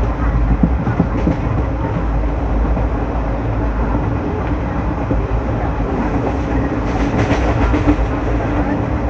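Moving train heard from on board: a steady rumble of wheels on track, with a few faint clicks about a second in and again near the end.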